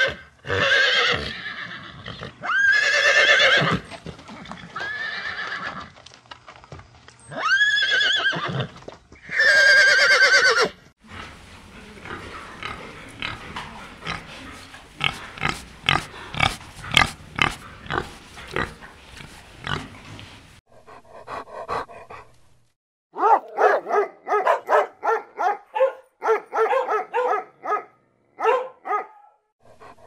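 Horses neighing and whinnying, about six high calls in the first eleven seconds. Then a pig grunting and snuffling, a long run of short grunts.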